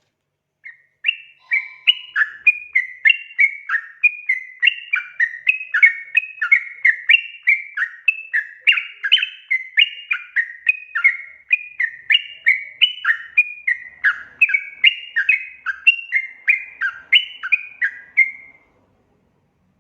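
Yellow-vented bulbul (trucukan) singing a long, unbroken run of quick, bubbly warbling phrases. The song starts just under a second in and stops about a second before the end.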